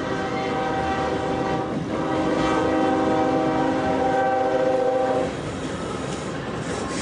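Train horn blowing one long steady chord of several notes, cutting off about five seconds in, with the rumble of the train going on after it.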